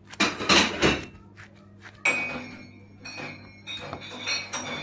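A short noisy scrape, then tableware clinking: a sharp ringing clink about two seconds in, followed by several lighter clinks.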